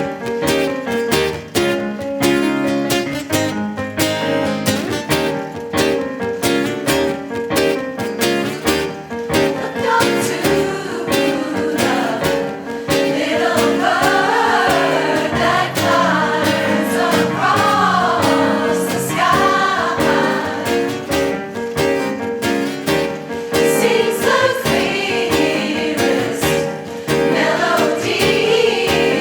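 Acoustic guitar strumming a steady rhythm. About ten seconds in, choir voices join, singing a melody over the guitar.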